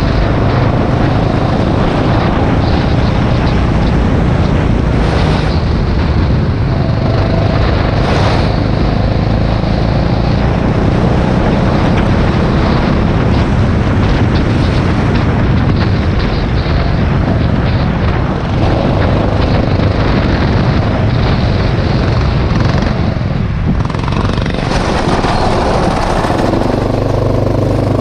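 Rental go-kart engine running hard on track, heard from on board the kart, steady and loud. Near the end it settles to a steadier, lower note, as if easing off toward idle.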